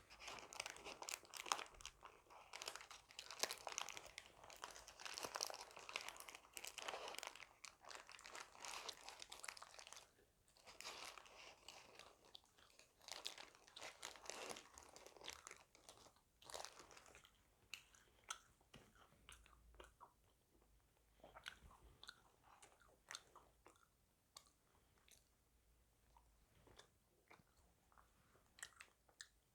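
Close-miked crunching and chewing of crispy KFC fried chicken. For the first half or so it is loud and dense, with the crust crackling between bites; after that it thins out to softer, sparser chewing.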